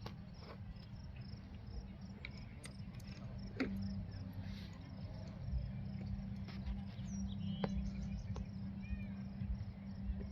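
Outdoor riding ambience: a steady low rumble of wind on the microphone, under a faint, fast, even high pulsing, with a few sharp clicks and some short chirps in the second half.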